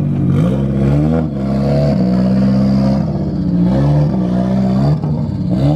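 Car engine revving hard, its pitch rising and dropping back several times as the throttle is worked, typical of a drift car.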